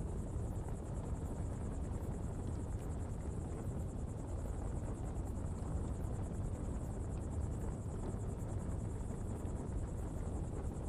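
Coal-fuelled pottery fire burning steadily: a low, even rumble of flames with a few faint scattered crackles.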